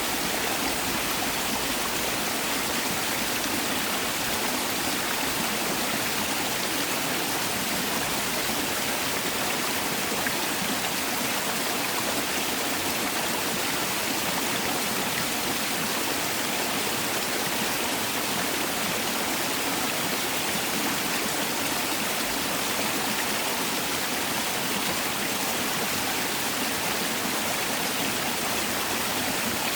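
Mountain valley stream rushing steadily over rocks, a continuous even splashing flow.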